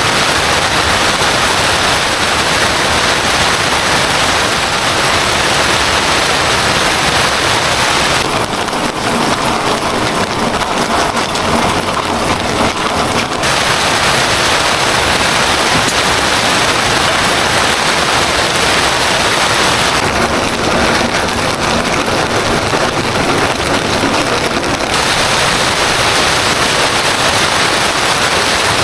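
Heavy rain falling steadily as a dense, unbroken hiss. Twice the hiss softens in its upper range for about five seconds, starting about eight and about twenty seconds in.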